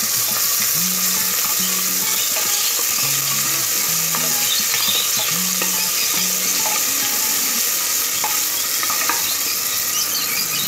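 Sliced onions and ginger-garlic paste sizzling in hot oil in a pressure cooker pot, stirred around with a wooden spatula. The sizzle is steady throughout.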